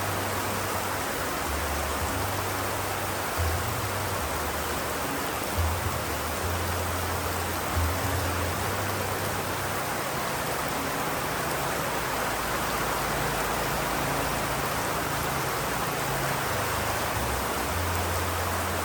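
Steady rain, an even hiss, with a low rumble underneath that comes and goes.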